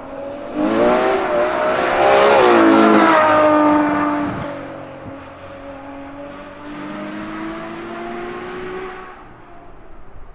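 Synthetic engine sound from the Maxhaust external loudspeakers in the rear wheel arches of an electric Nissan Leaf Nismo. The fake exhaust note rises in pitch and grows loud as the car accelerates, then drops back and holds a lower note, with a smaller swell near the end before it fades.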